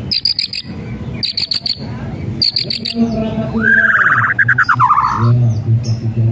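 White-rumped shama (murai batu) calling: three quick bursts of high, dry rattling 'kretekan' notes about a second apart, then, a little past three seconds in, a fast warbling trill that runs for nearly two seconds.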